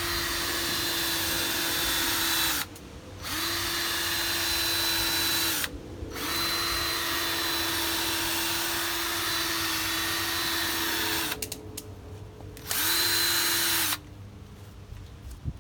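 Cordless drill spinning a polishing disc with polishing solution over a plastic headlight lens, running in four spells of a few seconds with short stops between them. It holds a steady pitch while running.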